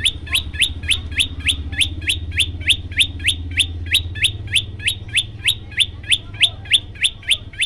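Prenjak lumut bird calling a fast, even string of sharp notes, about three or four a second, each sliding down in pitch. A low steady hum sits underneath.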